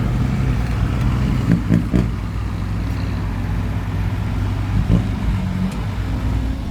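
Dump truck engine running steadily, with a few short knocks about one and a half to two seconds in and again near five seconds.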